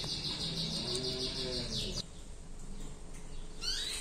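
A small bird chirping: a fast, even run of high chirps, about eight a second, that stops about two seconds in, then a short burst of rising chirps near the end.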